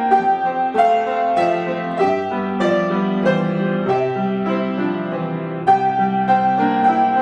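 Solo piano playing: notes and chords struck about every half second, with a high melody note held over the moving lower notes.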